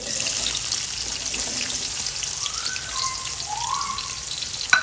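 Sliced onions sizzling and crackling as they fry in hot ghee in a metal pan, with one sharp knock near the end.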